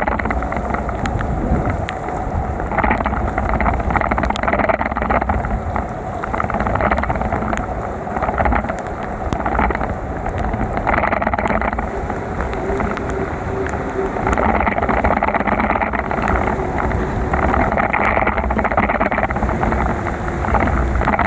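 Continuous rushing road noise from a bicycle ride through heavy rain, with a low rumble and hissing that swells and fades every second or two, and a few small clicks.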